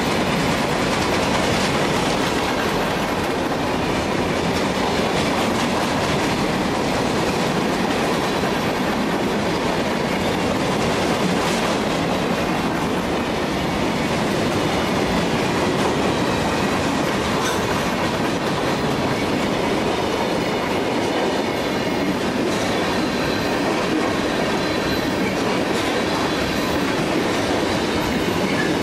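Freight cars of a long mixed train (hoppers, tank cars, boxcars) rolling past at a steady speed: a steady rumble and clatter of steel wheels on rail, with repeated clicking.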